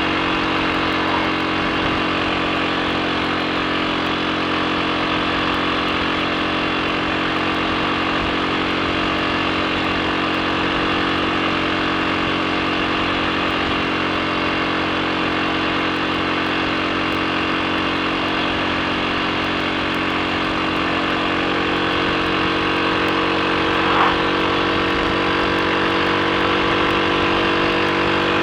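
Triumph Sports Cub's single-cylinder four-stroke engine running smoothly at a steady speed on the move, without misfiring. There is one short sharp sound about 24 seconds in.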